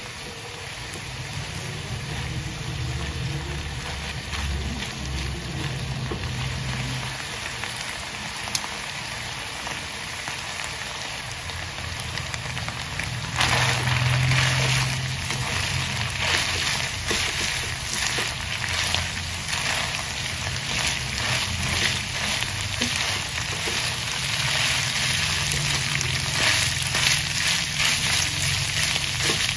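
Shredded chicken sizzling in a frying pan as it is stirred with a silicone spatula: a steady frying hiss with fine crackling, louder and busier from about halfway through, over a low steady hum.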